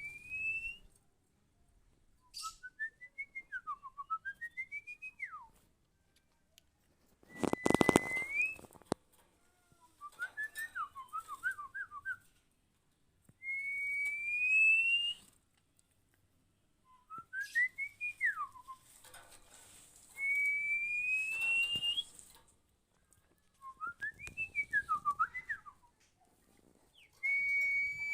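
Clear whistled song in a repeating loop, each round a long smoothly rising whistle followed by a phrase of quick up-and-down notes, coming back about every seven seconds, the kind of song played or whistled to a magpie-robin to coax it into singing. A short dull bump about seven seconds in is the loudest sound.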